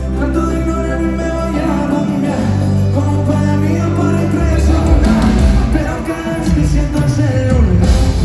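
Live pop band music with heavy held bass notes and some singing, growing busier about halfway through.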